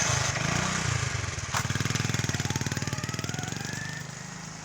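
A motor vehicle's engine running close by with rapid, even firing pulses, loud at first and fading over the last second or so.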